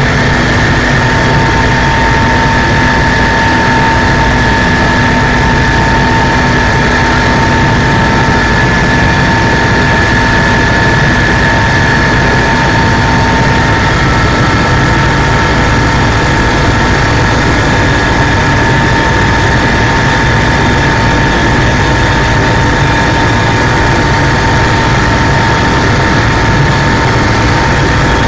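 Helicopter in flight: loud, steady engine and rotor noise with a constant whine running through it.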